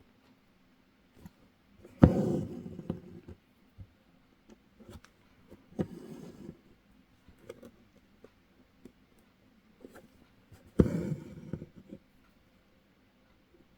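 Hand embroidery: an embroidery needle pushed through fabric and floss pulled through for straight stitches, with small ticks and scratches and two louder strokes about 2 seconds and 11 seconds in, each trailing off over about a second.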